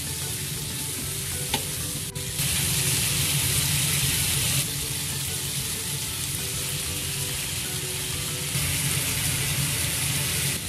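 Chicken pieces frying in hot oil in a wok, a steady sizzle that grows louder about two seconds in and again near the end.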